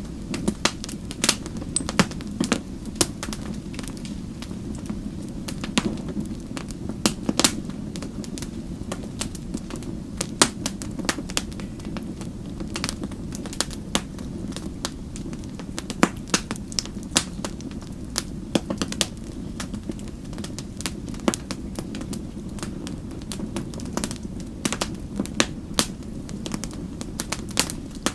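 Wood fire burning with irregular sharp crackles and pops over a steady low rushing of the flames.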